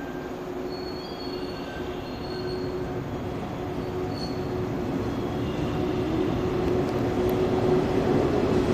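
JR 115-series electric multiple unit pulling away and gathering speed: its running noise and traction-motor hum grow steadily louder, with a steady tone throughout and a second tone rising in pitch near the end.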